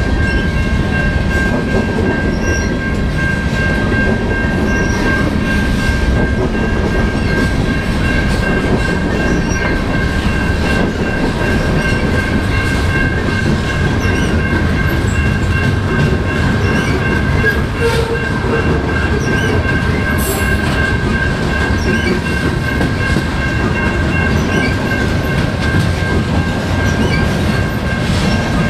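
CN freight train's cars rolling past on the rails, a loud steady rumble of wheels and cars, with a steady high-pitched tone running through it.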